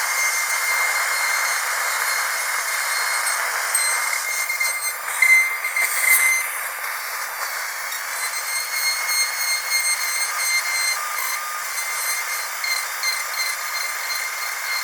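Dentist's drill whining at a steady high pitch over a hiss. It gets briefly louder and unsteady about five to six seconds in, then settles back.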